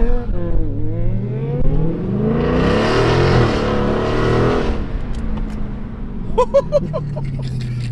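Car engine revving, its pitch rising and falling, swelling into a louder rush of noise for about two seconds in the middle.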